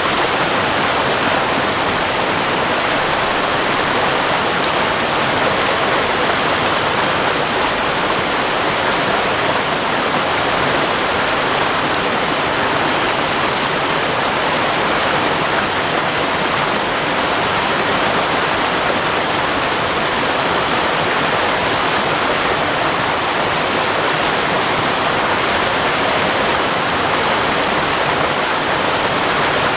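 Ortega Falls, a seasonal waterfall, pouring steadily over rock, a loud continuous rushing of water that does not change.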